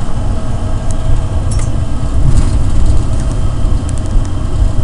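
Rubber-tyred airport people-mover train running through a tunnel, heard from inside the car: a loud, steady low rumble with a few faint clicks.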